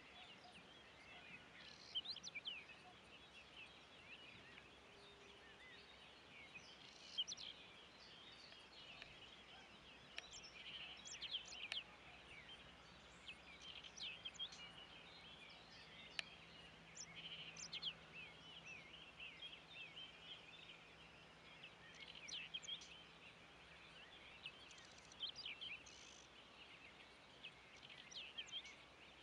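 Faint outdoor ambience of small birds chirping, with short high calls scattered throughout over a soft steady hiss.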